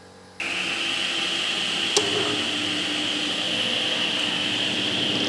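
A power woodworking machine starts running abruptly under half a second in, then keeps up a steady high-pitched whine over a rushing noise, with one brief click about two seconds in.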